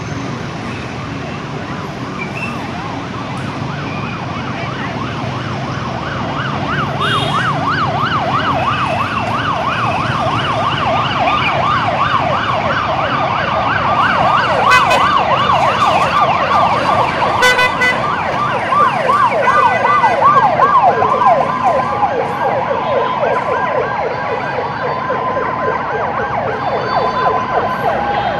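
Fire engine sirens in a fast yelp, about three sweeps a second, growing louder as the convoy approaches; from about the middle two or more sirens overlap at different pitches, over the noise of street traffic.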